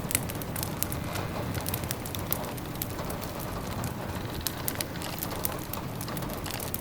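Steady rain tapping on windows, mixed with a crackling wood fire whose sharp pops and snaps are scattered throughout.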